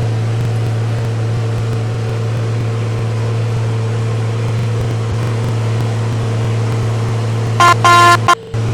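Train running with a loud, steady low drone. A few short higher tones break in near the end.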